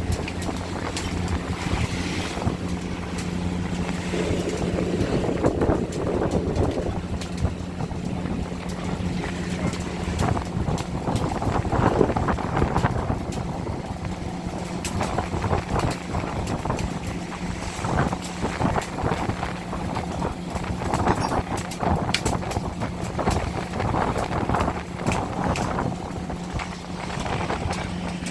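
Longline fishing vessel's engine running with a steady low hum, with wind on the microphone and frequent short knocks and clatter on board.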